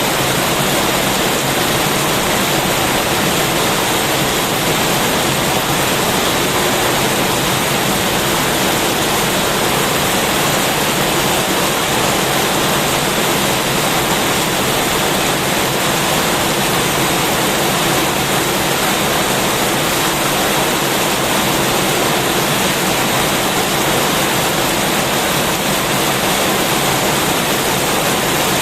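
Heavy rain falling steadily: a dense, even hiss with no single drops standing out and no change in strength.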